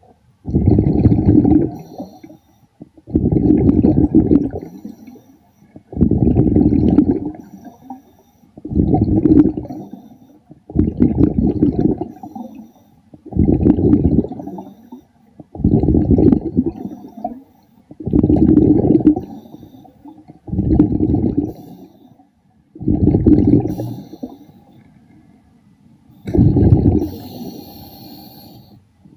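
A scuba diver's exhaled breath bubbling out underwater: eleven low, rumbling bursts of bubbles, one every two to three seconds, with short quiet gaps between them for the inhale.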